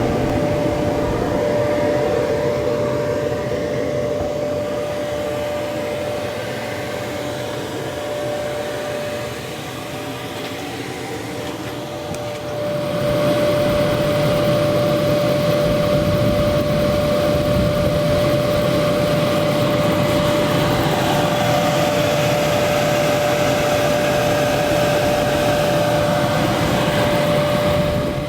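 Air blower on a charcoal forge running steadily: rushing air with a constant motor whine, getting louder about halfway through.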